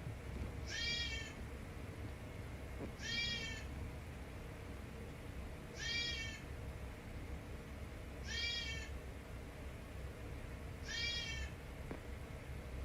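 Kitten meowing: five short, high-pitched meows, evenly spaced about two and a half seconds apart.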